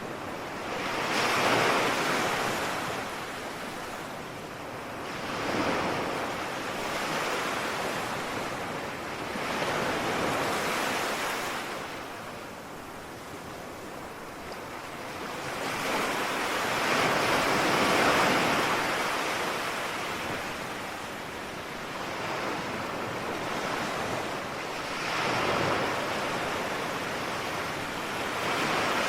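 Ocean waves breaking and washing on a shore, coming in swells every few seconds over a steady hiss of surf.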